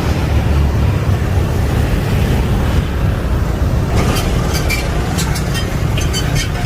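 Jet airliner engines rumbling loudly as the aircraft passes close by on landing. In the second half, a run of sharp high clicks sounds over the rumble.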